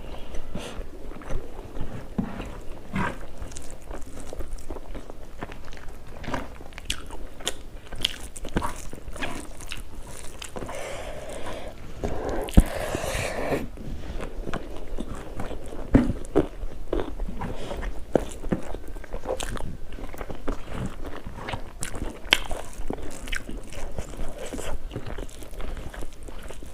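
A person eating: biting and chewing food with crunchy, irregular clicks, and a longer rustling, smacking stretch about halfway through.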